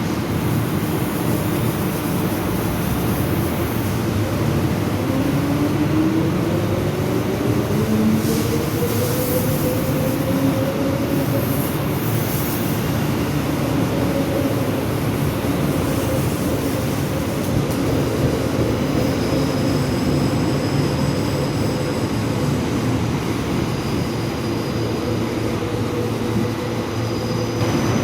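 Electric suburban train at the platform: a motor whine rises in pitch over several seconds and then holds steady over the rumble of the wheels, with brief hissing partway through and faint high squeals later on.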